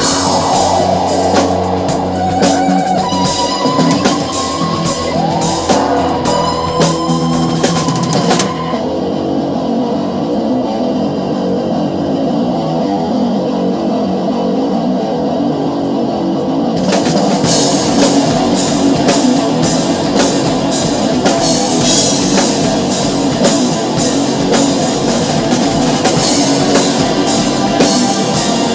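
Live drum kit, a Sonor kit with Paiste cymbals, played along to a rock track with electric guitar. Early on the guitar bends notes over busy drum and cymbal playing. About eight seconds in the drums and cymbals drop out, leaving only the backing track, and they come back in about eight seconds later.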